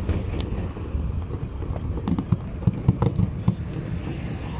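Aerial fireworks shells bursting: scattered bangs and crackles, coming thick and fast about two to three and a half seconds in, over a steady low rumble.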